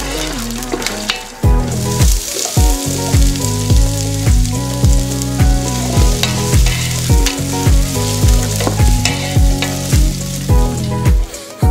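Sliced onions and whole spices sizzling in hot ghee in a pot, stirred with a wooden spatula. Background music with a steady beat comes in about a second and a half in and is the loudest sound.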